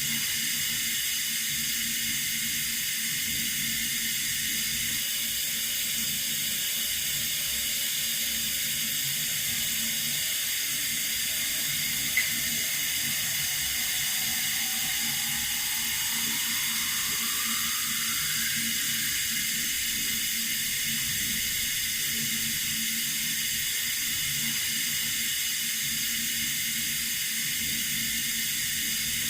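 Water running steadily from a tap, an even hiss. There is a short click about twelve seconds in and a faint rising tone a little after.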